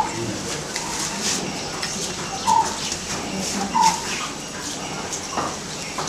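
A bird calling with short single notes, about three in a few seconds, each a second or two apart, over steady background noise.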